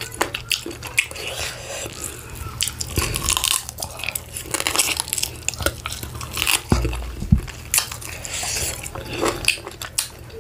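Close-miked mouth sounds of a person biting into and chewing a piece of meat, with many short sharp clicks of teeth and mouth, and a dull thump about seven seconds in.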